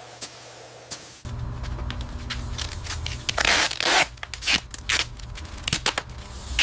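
Workshop sounds. A low steady hum comes in about a second in, and over it runs a rapid series of clicks, scrapes and short hissing rasps.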